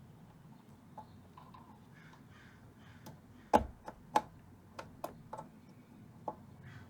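Sharp metallic clicks and taps from tools working a wired lead loose while desoldering inside a vintage tube amp chassis. One louder knock with a dull thump comes about halfway through, then several lighter ticks follow.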